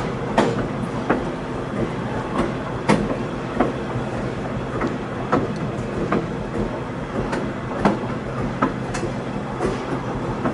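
Passenger train rolling along: a steady rumble of the cars, with irregular sharp clicks and knocks from the wheels passing over rail joints, about one or two a second.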